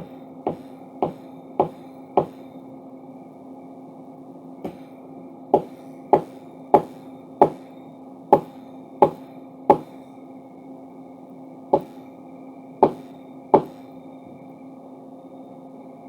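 Power hammer forging a steel crowbar: sharp, ringing blows in uneven runs of about two a second, with pauses between runs, over a steady machine hum.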